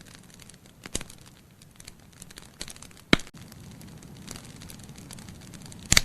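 Wood logs burning in a fireplace: irregular crackling with many small snaps and a few sharp louder pops, the loudest about three seconds in.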